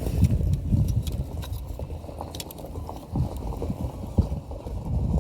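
Low, uneven rumbling noise of wind buffeting the microphone, with a few faint sharp clicks scattered through it.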